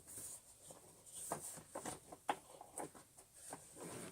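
Faint handling noises: scattered light taps and scratchy rustles as hands feel the bristles on the brush roll of an Electrolux Turbo 2 Super vacuum cleaner.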